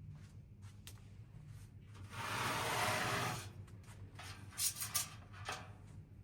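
A rubbing scrape lasting about a second and a half, followed near the end by a few short scrapes, over a low steady hum.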